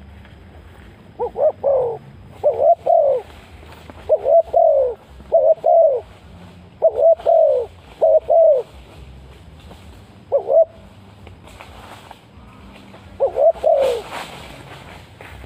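Spotted dove cooing: a run of short phrases of two or three low, falling coos, about eight phrases with brief pauses between them and a longer gap near the end.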